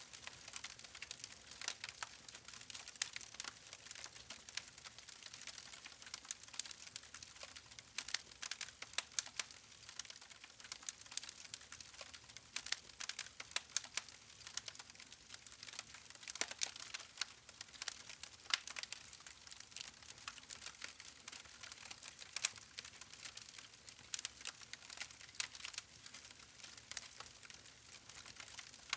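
Campfire of burning logs crackling: irregular sharp pops and snaps over a steady soft hiss.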